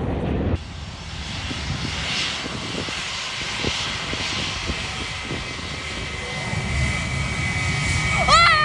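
Jet airliner's engines giving a steady broad roar with a low rumble. Near the end, pitched music-like tones come in over it.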